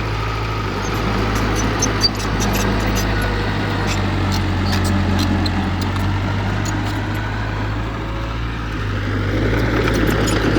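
Heavy diesel engine of earth-moving machinery running steadily, with one sharp knock about two seconds in. It eases off slightly around eight seconds in and picks up again near the end.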